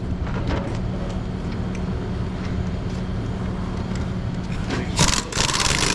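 Steady vehicle hum with road noise, then about five seconds in a short, loud burst of rapid rattling from an impact wrench running the lug nuts onto a trailer's spare wheel.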